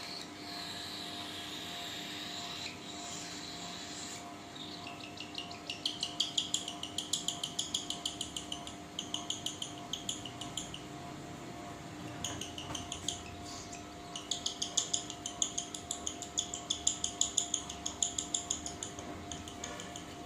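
Lutino cockatiel chick giving rapid food-begging calls while being syringe-fed, in runs of about six high pulses a second that begin about five seconds in and stop and restart a few times. Such constant calling is the sign of a chick that is still hungry.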